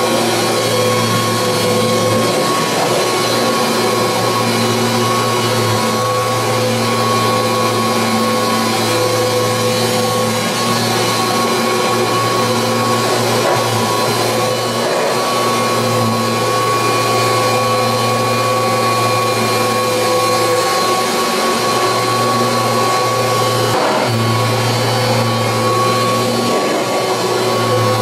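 1986 Kirby Heritage 2 upright vacuum cleaner running steadily, a constant motor hum and whine, with the low hum briefly dipping a few times.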